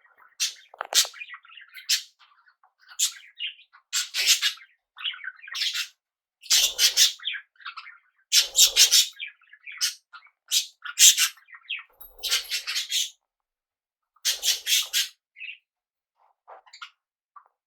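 Small pet parrots chirping and squawking: an irregular run of short, harsh calls, tailing off to a few faint chirps near the end.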